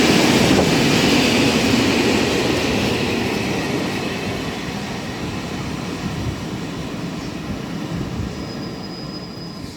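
A train running past on the track, its rail noise fading steadily as it moves away. A thin high tone sounds over the first few seconds.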